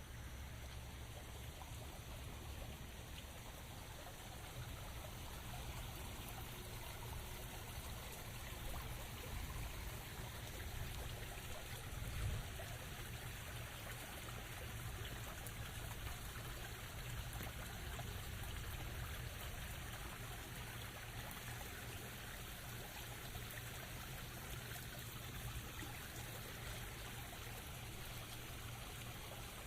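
Steady rain, a continuous even hiss of falling water over a low rumble, with one brief louder moment about twelve seconds in.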